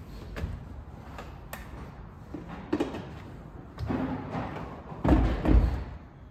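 Scattered knocks and clunks of hard objects being handled, with the loudest, deepest thumps about five seconds in.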